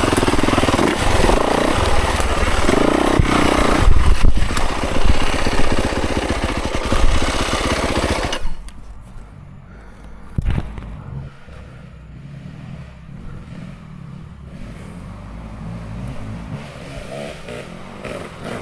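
Dirt bike engine running hard along a trail with wind noise, then about eight seconds in it drops off sharply to a low idle, with a single knock shortly after.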